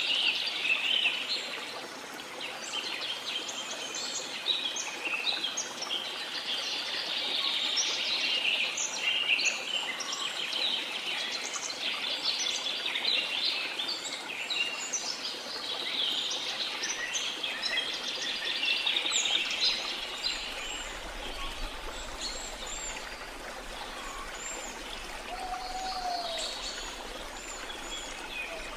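Many birds chirping and whistling in a dense, overlapping chorus over the steady rush of a waterfall. Near the end, a couple of lower, shorter whistles stand out.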